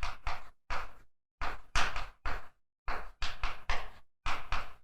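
Writing on a lecture board: a quick, irregular run of short strokes and taps, about a dozen in under five seconds.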